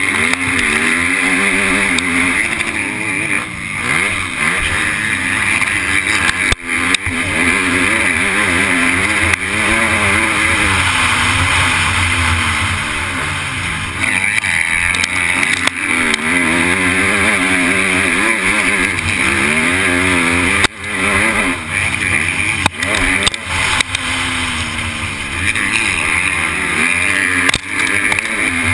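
MX2 motocross bike engine heard from an onboard camera, racing: the revs rise and fall again and again as the rider accelerates, shifts and rolls off for corners and jumps. A steady rush of wind noise runs under it, with a few brief sudden cut-offs in the throttle.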